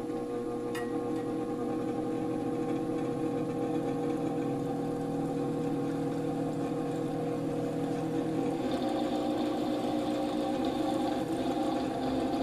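A 150 mm all-metal AC fume-extractor fan with dry, failing bearings, running with a steady hum, with a light click about a second in.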